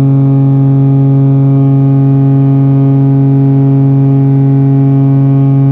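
The Costa Pacifica cruise ship's horn sounding a long, steady, low blast as the ship leaves port.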